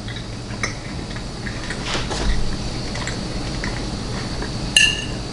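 A person chewing a bite of chicken, with small scattered mouth clicks. Near the end a metal fork clinks once against a plate and rings briefly.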